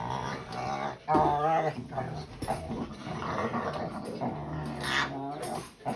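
A dog growling and whimpering in several bouts.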